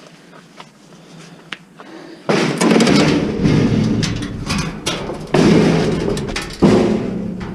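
Scrap metal parts being handled, clattering and scraping with many sharp knocks. It starts a couple of seconds in, with louder jolts about midway and again near the end.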